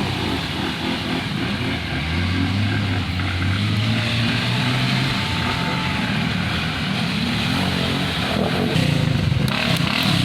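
Engine of a big-bore Kawasaki Brute Force 840 ATV running, a steady rumble that grows heavier for a few seconds near the start.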